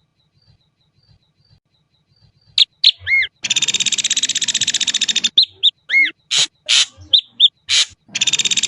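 Ashy drongo calling: faint soft notes, then loud short whistled and arched notes broken by a long, very rapid harsh rattle of about two seconds, with a second rattle starting near the end.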